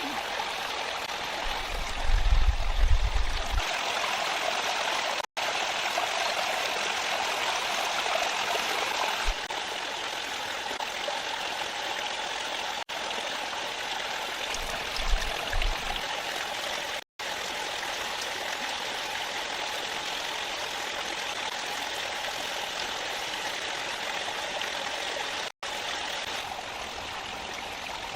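A stream flowing steadily with an even rushing sound, broken by a few very short gaps. Two short low rumbles come about two seconds in and again past the middle, like wind buffeting the microphone.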